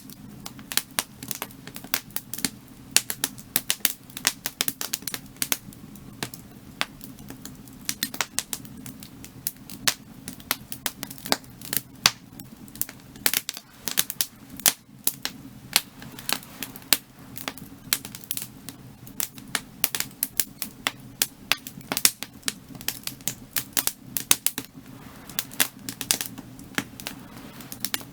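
Burning firewood crackling: rapid, irregular sharp pops and snaps over a steady low hum.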